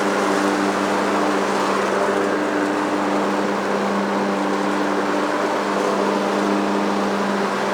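John Deere lawn mower engine running steadily at a constant speed, a continuous even drone.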